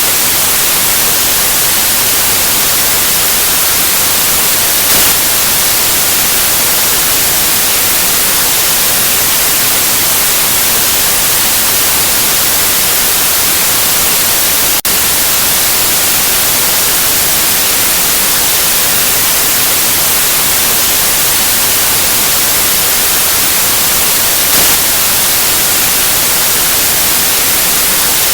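Steady, loud white noise: an even hiss across the whole range, with one brief tick about halfway through.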